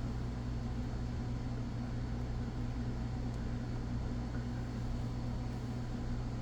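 A steady low hum with an even hiss of background machine noise, unchanging throughout, with no other sound standing out.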